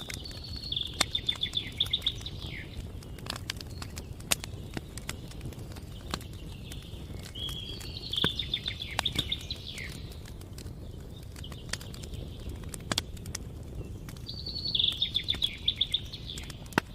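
A songbird sings a short, high, trilled phrase ending in a falling note three times, about every six to seven seconds, over the crackle and sharp pops of a campfire and a steady low rumble.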